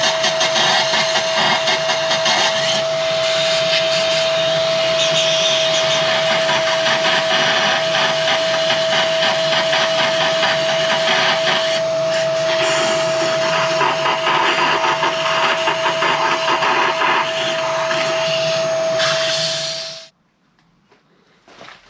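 A motor-driven machine runs steadily with a constant high whine over a loud hiss, then cuts off suddenly near the end.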